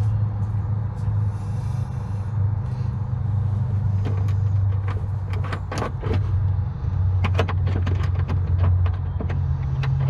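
A steady low engine hum, like a motor idling, with irregular sharp metal clicks and knocks from about four seconds in as parts are handled.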